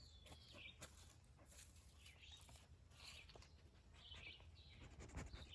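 Near silence with faint, short bird calls every second or so and a few soft clicks.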